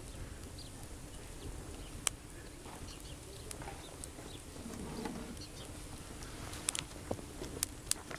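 Campfire crackling, with a few sharp pops, one about two seconds in and a cluster near the end, over a low steady rustle; faint bird chirps here and there.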